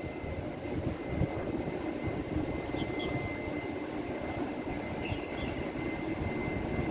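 Taiwan Railway Fu-Hsing class train running, a steady low rumble with a faint, thin high whine above it.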